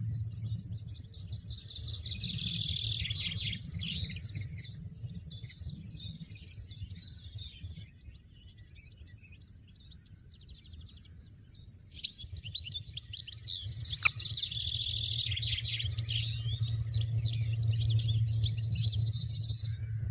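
European goldfinch twittering in quick runs of high notes, thinning out about eight seconds in and picking up again about four seconds later. A steady low hum runs underneath, dropping out in the middle.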